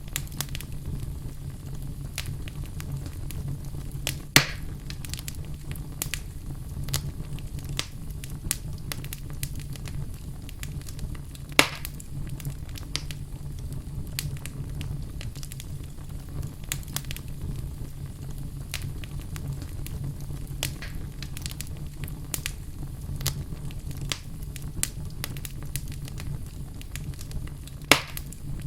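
Wood burning in a fireplace: frequent small crackles over a steady low rumble, with three louder pops, about 4 seconds in, about 12 seconds in and near the end.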